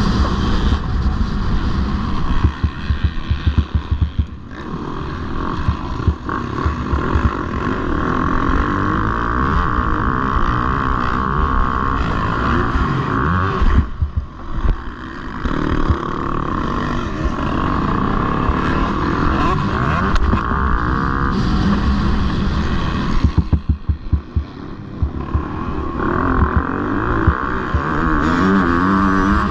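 Motocross bikes racing, their engines revving hard and pulling up through the revs, with the throttle cut briefly about four, fourteen and twenty-four seconds in.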